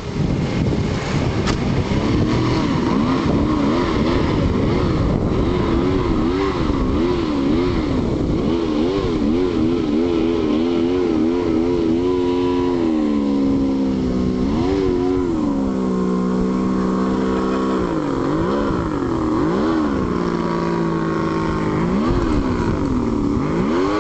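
Motorboat engine running, its pitch rising and falling over and over, quickly at first and in slower, longer swings after about twelve seconds, with a steady rushing noise underneath.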